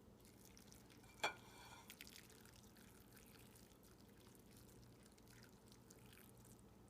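Near silence with a single short, sharp tap about a second in, followed by a few faint clicks.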